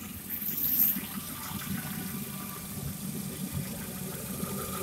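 Honda F18B2 1.8-litre four-cylinder petrol engine idling steadily, with a brief swell in level just under a second in.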